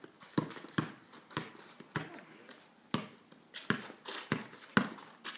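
A basketball bouncing, about nine sharp thumps spaced roughly half a second to a second apart, as in a loose dribble.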